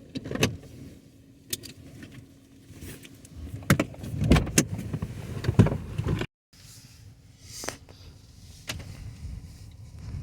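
A car's interior: a steady low hum with scattered clicks and knocks, heavier in the middle. There is a brief cut to silence a little after six seconds in.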